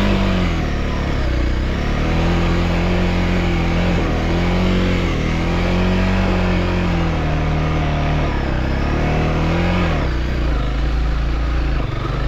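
Motorcycle engine being ridden through slick mud, its revs rising and falling again and again.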